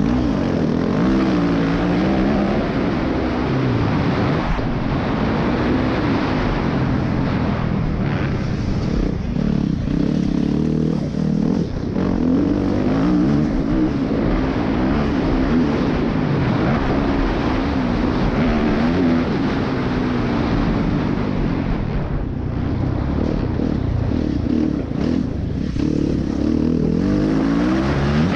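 Dirt bike engine revving up and dropping back again and again, its pitch rising and falling with throttle and gear changes, as the bike is ridden around a motocross track.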